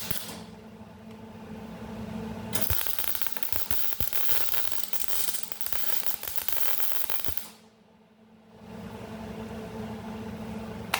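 Arc welder crackling and sizzling for about five seconds, starting a few seconds in, as a nut is welded onto a broken exhaust manifold stud so the stud can be turned out. It stops abruptly, and a steady low hum returns shortly after.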